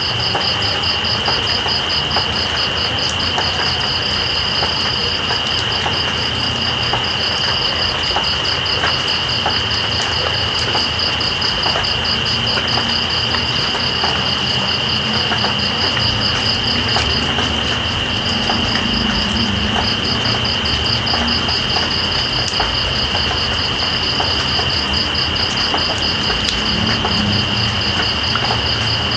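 Steady rain with scattered drips, under night insects: one holds a continuous high trill while another chirps in a rapid, even pulse, pausing briefly twice.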